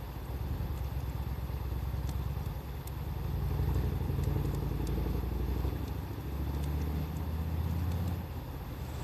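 A loud, uneven low rumble, with faint scattered crackles of a burning wood fire over it.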